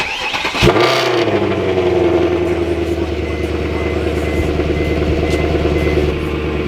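Mercedes C63 AMG's 6.2-litre V8 starting through headers and an aftermarket exhaust. It catches under a second in, flares briefly, then settles into a steady idle.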